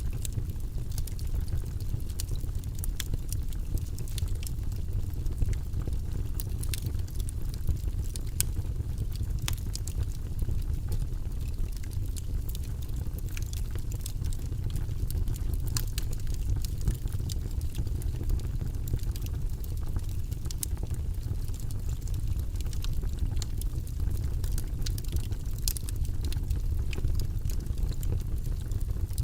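Wood fire burning in a fireplace: a steady low rumble with frequent sharp crackles and pops from the logs.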